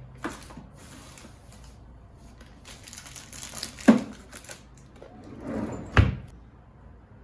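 Items being handled: rustling or crinkling, with three sharp knocks as things are set down, the loudest just before the middle.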